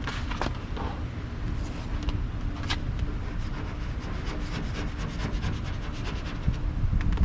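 Vinyl wrap film being handled and smoothed onto a truck panel: scattered crinkles and rubbing over a steady low rumble.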